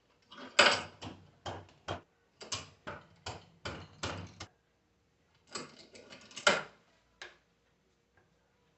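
Sharp metal-on-metal knocks from tools striking alternator parts while a bearing is worked out: about ten knocks over four seconds, then a second cluster of knocks about a second later.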